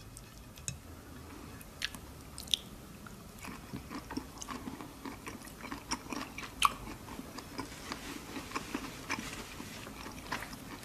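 A person chewing and biting food close to the microphone. There are a few sharp clicks in the first three seconds, then a steady run of small irregular wet crackles, with one louder click about halfway through.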